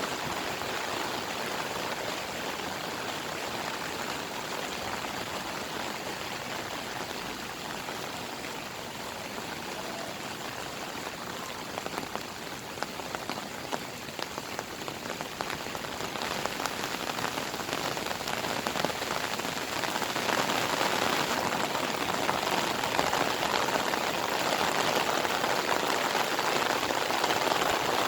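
Heavy monsoon rain falling steadily, a dense hiss of drops with many small pattering ticks on surfaces, growing heavier and louder over the last third.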